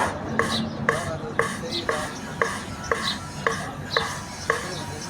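Engine valve being hand-lapped into its seat in a Volvo FMX 400 cylinder head with grinding paste, a rasping stroke about twice a second as the valve is twisted back and forth. The lapping polishes out scratches on a seat that was leaking slightly.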